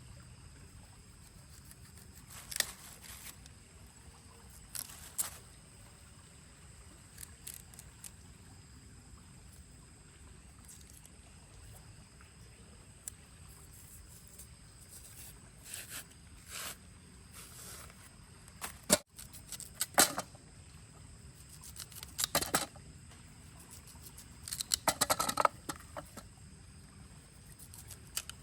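Steady rain falling, with scattered sharp clicks and short bursts of rustling and knocking, the loudest clusters in the second half.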